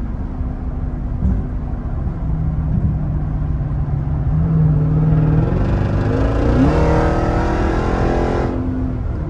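Jeep Grand Cherokee Trackhawk's supercharged 6.2-litre V8 engine running steadily while cruising, then, about five seconds in, revving up hard under acceleration with a rising pitch for about three seconds before easing back off.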